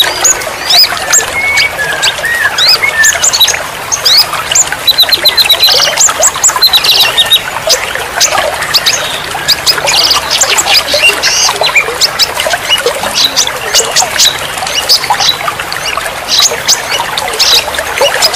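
A dense chorus of songbirds chirping and calling, many short whistled notes, rising sweeps and sharp ticks overlapping without a break.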